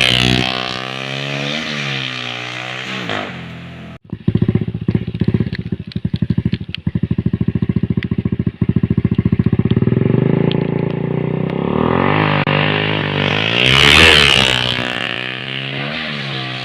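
Yamaha Jupiter MX single-cylinder motorcycle engine, fitted with a PE28 carburettor and a free-flowing exhaust, being blipped. The revs drop and rise, there is a sudden break about four seconds in, and then it runs with fast, uneven exhaust pulses for several seconds. Near the end it is revved up to a peak and falls back.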